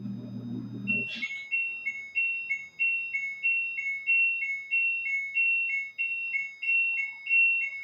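An electronic two-tone beeping, high and low notes alternating evenly about one and a half times a second, like an alarm; a low hum comes before it during the first second.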